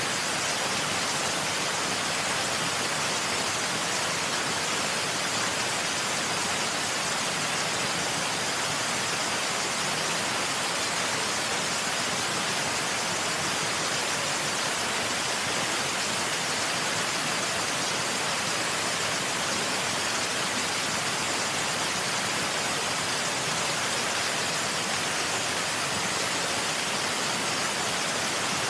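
Waterfall: a steady, unbroken rush of falling water, a hiss weighted toward the high end with little low rumble.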